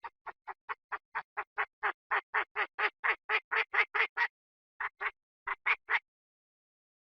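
Chinese francolin calling: a fast run of about twenty short, harsh notes, roughly four a second and growing louder, then after a brief gap a few more notes before it stops.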